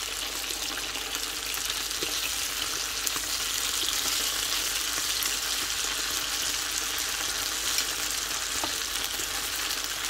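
Diced chicken pieces frying in olive oil in a pan: a steady sizzle with small scattered crackles and pops.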